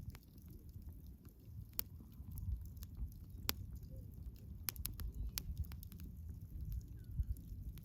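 Wood campfire burning: a low steady rumble with scattered sharp crackles and pops, a small cluster of them about five seconds in.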